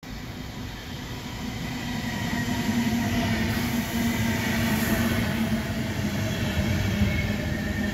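Deutsche Bahn Intercity passenger train running along a station platform. Its rumble grows louder over the first few seconds as the coaches come alongside, then stays steady, with a steady hum through it.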